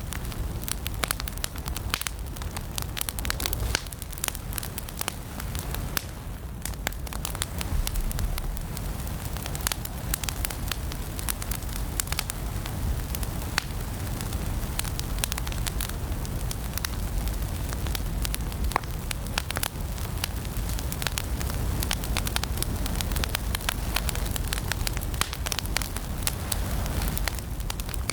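Wood fire burning in a fireplace: dense, irregular crackles and pops over a steady low rumble of flame.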